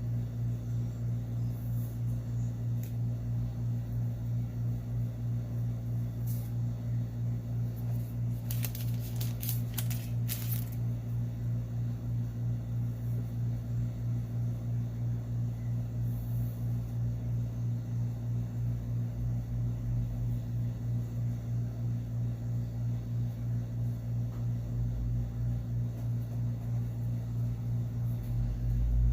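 A steady low hum that pulses evenly about three times a second, with a few brief clicks about nine to ten seconds in.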